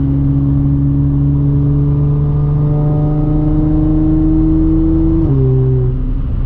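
Audi S4 B8.5's supercharged 3.0-litre V6 pulling with an AWE exhaust and test pipes, heard from inside the cabin. The engine note climbs slowly, then steps abruptly to a different pitch about five seconds in.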